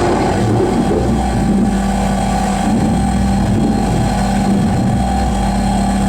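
Live noise music: a loud, dense, distorted drone with a steady low tone held through most of it.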